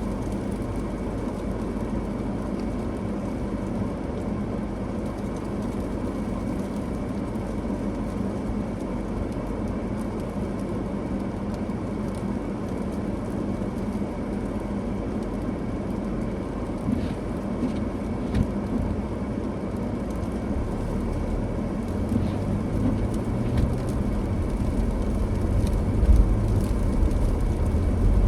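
Steady road and engine noise of a car driving on a snowy road. A deeper rumble grows louder in the last few seconds.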